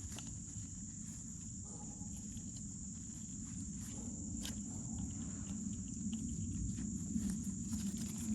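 Insects chirring steadily with a high, even tone over a low background rumble, with a few faint clicks of handling.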